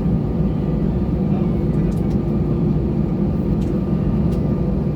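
Airbus A320 cabin noise: the steady drone of the engines and rushing air, with a few faint steady tones over it.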